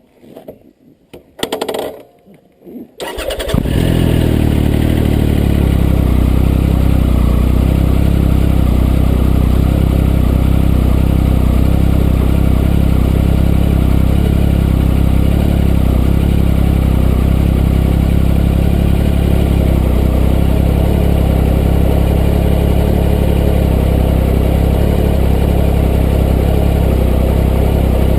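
A 2016 Triumph Explorer XCA's three-cylinder engine with an Arrow exhaust starts about three seconds in, after a few faint clicks, and then idles steadily.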